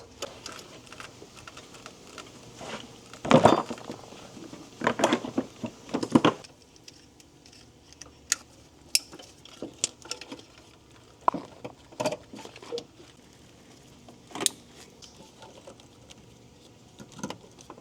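Hand tools and metal parts clinking and clanking while the AC lines, radiator and fans are fitted into a car's engine bay. The clatter is heaviest in the first six seconds or so, then thins to scattered single ticks.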